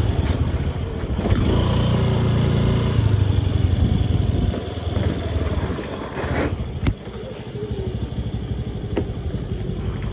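Motorbike engine running with a low rumble, growing quieter after about four seconds. A sharp click comes near seven seconds, as the sound drops further, and a lighter tick follows a couple of seconds later.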